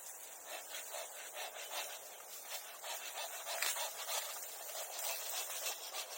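Dry bamboo grass and sticks being handled, rustling and scraping in irregular scratchy strokes.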